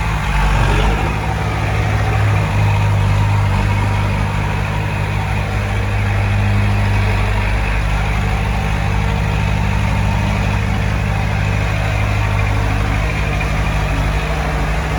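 Heavy diesel engine of earthmoving equipment running steadily at a low, even note.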